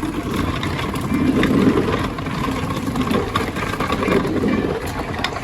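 A car engine running close by, a low rumble that swells about a second and a half in and again near the four-second mark.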